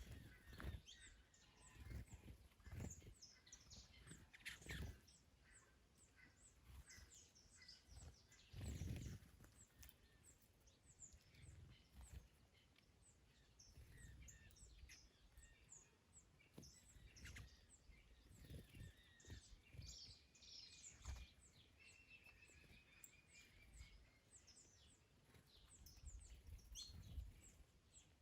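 Faint garden birdsong: several small birds chirping and trilling, with one bird giving a falling run of quick repeated notes about two-thirds of the way in. Gusts of wind rumble on the microphone every few seconds.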